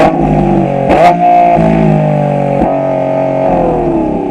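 Lamborghini Revuelto's hybrid V12 running on a QuickSilver stainless cat-back exhaust, a steady howl with two sharp cracks, one near the start and another about a second later. Near the end the revs fall away.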